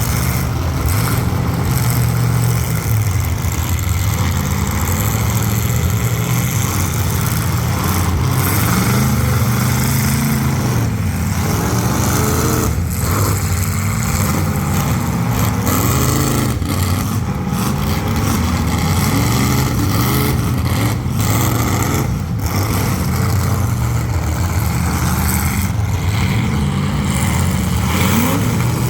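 Engines of several full-size demolition derby cars running and revving together, their pitch rising and falling as they accelerate and back off.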